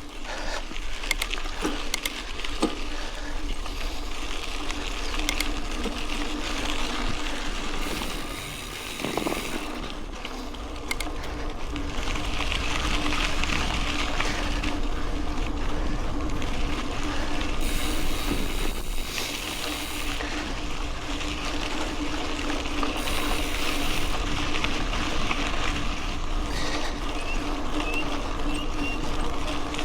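Mountain bike rolling along a dirt road: tyre noise on the gravel surface, with clicks and rattles from the bike.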